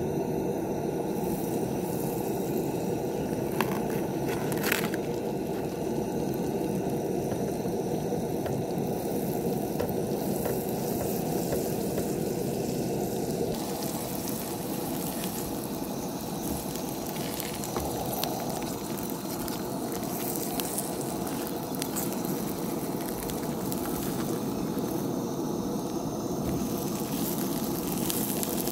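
Crab cakes sizzling as they fry in butter and oil in a nonstick pan on a propane camp stove. The sizzle is steady and crackling, with a few sharper pops and clicks.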